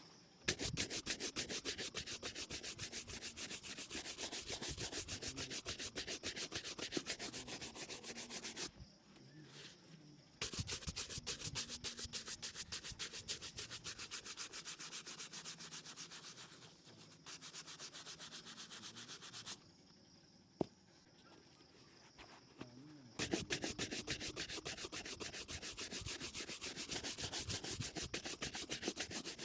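Fast back-and-forth rubbing on a leather shoe during cleaning and polishing, in three long spells with short pauses between them. A single sharp click comes in the second pause.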